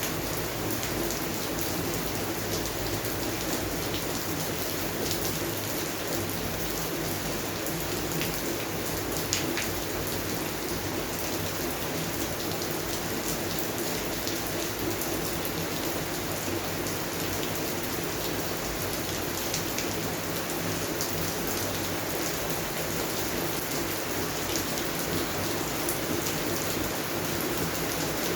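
Steady rain falling on garden plants, with scattered drops ticking through the hiss and one sharper drop about nine seconds in.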